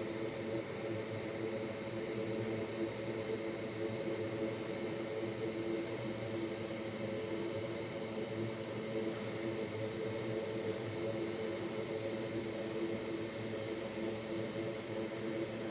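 Steady fan whir with a low hum, running evenly without change.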